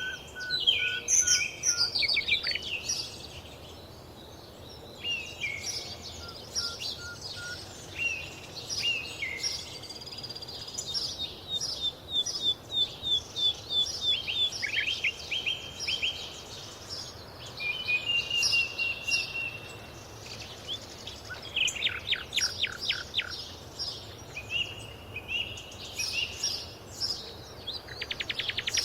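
Several different birds singing and calling together: whistled phrases, chirps and quick series of short notes, with a fast rattling trill about three-quarters of the way through.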